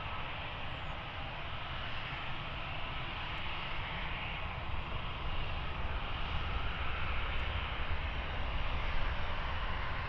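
Jet airliner engine noise: a steady rush with a low rumble beneath, slowly growing louder.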